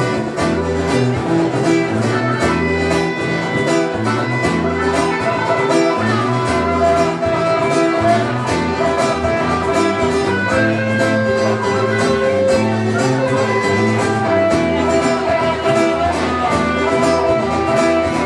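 Live band playing an instrumental passage of a funk-rock groove: electric lead guitar over bass guitar and a strummed acoustic guitar, with a steady, even rhythm and no vocals.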